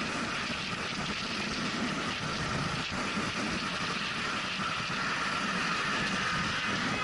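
Steady road and engine noise of a moving vehicle, growing slightly louder.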